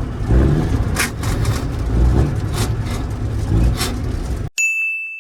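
Vehicle engine running and revving in the cab during an attempt to shift into third gear without the clutch. The sound cuts off abruptly about four and a half seconds in, and a single high ding rings and fades.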